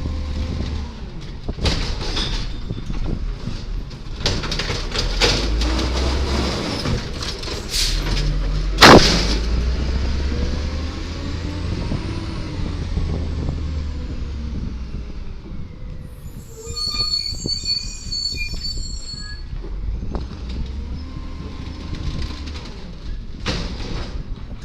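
1999 Volvo Amrep Octo automated side-loader garbage truck with its diesel engine running, with repeated clanks and knocks and one loud bang about nine seconds in. A high-pitched squeal comes in for a few seconds about two-thirds of the way through.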